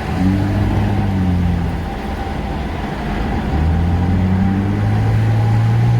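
A car engine pulling hard twice. The first pull starts about a quarter second in and eases off after about two seconds; the second starts about three and a half seconds in and rises slowly in pitch as the car accelerates.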